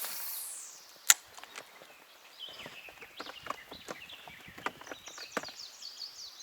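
A spinning rod cast: a falling whoosh as the lure flies out, then a sharp click about a second in as the reel's bail closes, followed by scattered small clicks and knocks of tackle handling. Small birds chirp throughout.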